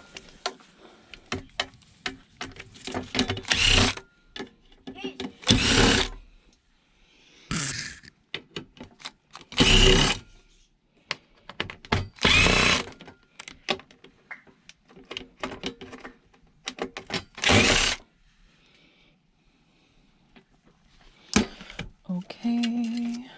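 Power drill run in about six short bursts during a coffee machine teardown, with sharp metallic clicks and rattles between the bursts.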